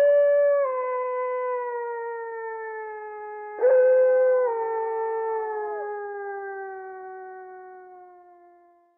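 A canid howling: two long howls, each starting high and sliding slowly down in pitch. The second begins about three and a half seconds in and fades away near the end.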